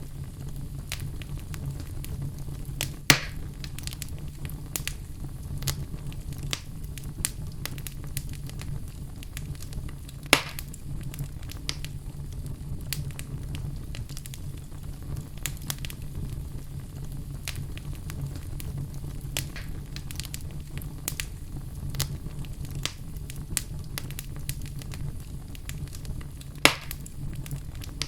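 Fire burning in a fireplace, crackling steadily with many small clicks over a low rumble. Three louder pops stand out: one about 3 seconds in, one about 10 seconds in and one near the end.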